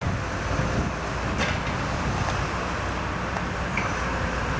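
Diesel engine of a demolition machine running steadily, a low rumble, with a sharp knock about a second and a half in.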